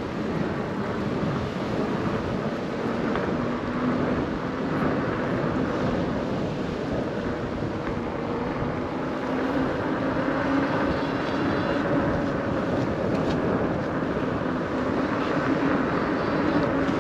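Wind rushing over the microphone during a bike ride, with a steady droning hum that grows a little louder in the second half.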